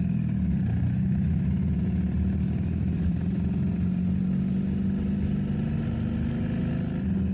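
Motorcycle engine running steadily at low speed, with an even low hum and rumble and no revving.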